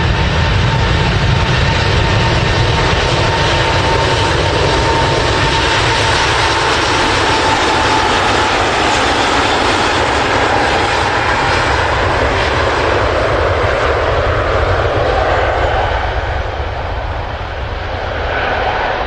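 Airbus A380 airliner departing, its jet engines a loud, steady roar with a thin whine through the first half. The roar eases off a little near the end.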